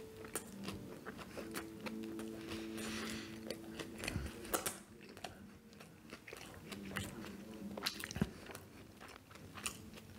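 Close-miked eating of fast food: a run of chewing, biting and crunching with many sharp mouth clicks. Faint steady low tones sit under it and stop about four seconds in.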